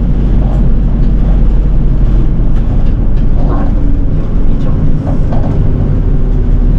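City bus diesel engine and drivetrain running under way, a steady low drone inside the bus cabin.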